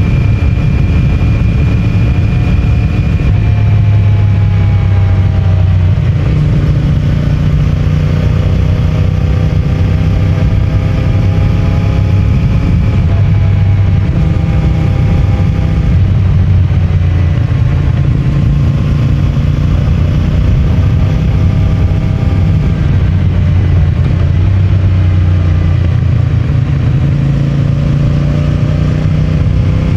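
CFMOTO 450MT's parallel-twin engine on its stock exhaust, heard from the rider's seat while riding. The engine note rises and falls repeatedly, with several sudden drops in pitch, as the bike accelerates and changes gear.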